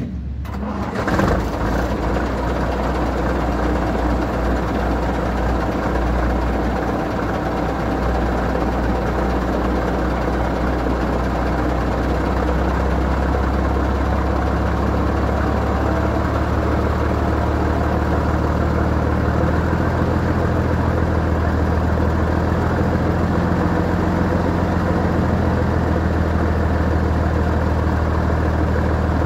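Scania 111S truck's six-cylinder diesel engine on its first start of the day: it fires about a second in, then settles into a steady cold idle.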